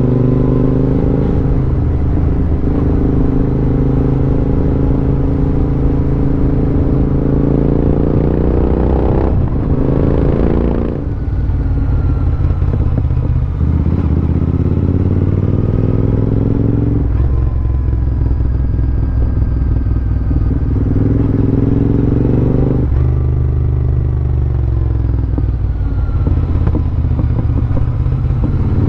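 Royal Enfield Interceptor 650's parallel-twin engine running under way, its pitch rising and falling repeatedly with the throttle. The engine note dips briefly about eleven seconds in.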